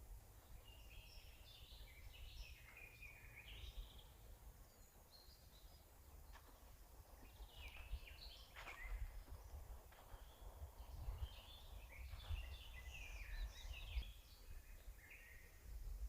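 Forest songbirds singing faint, quick phrases of several notes in three spells, the busiest near the end, over a steady low rumble.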